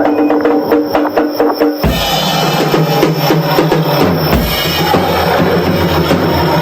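Drum kit solo with fast, dense strokes; about two seconds in the sound changes and a deeper low end comes in under the drumming.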